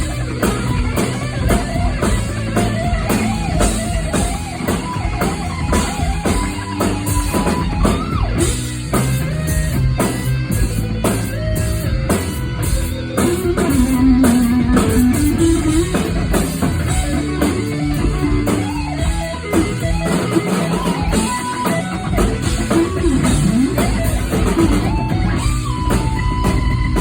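Live rock band: lead electric guitar played loud over a drum kit, with wavering bent and vibrato notes about halfway through and again near the end.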